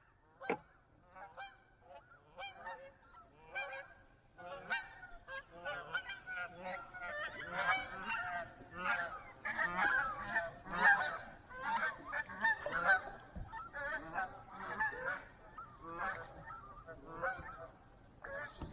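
A flock of geese honking, many short calls overlapping. The calls start sparse, are densest and loudest through the middle, and thin out near the end.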